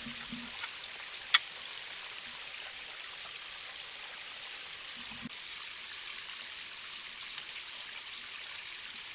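Steady rain falling in a forest, an even hiss with a few sharper drop clicks, the loudest about a second and a half in.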